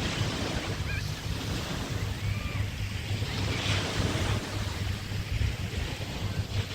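Bay waves washing onto the beach, with wind buffeting the microphone in a steady low rumble; one wave surges louder about three and a half seconds in.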